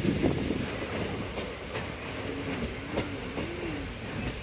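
Passenger train coaches rolling slowly along a station platform, wheels running on the rails with a few faint clacks. A faint wavering wheel squeal rises and falls a little past halfway.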